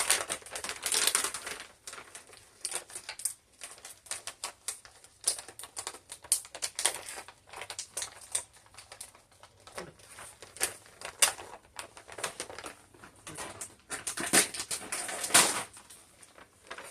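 Plastic candy wrapper crinkling and crackling in irregular bursts as fingers pick at it and tear it open, with louder crinkles near the start and again near the end.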